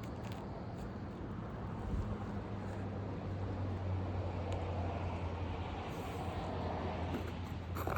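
Steady low motor hum with a rushing noise over it, swelling about two seconds in and holding; a scrape or click near the end.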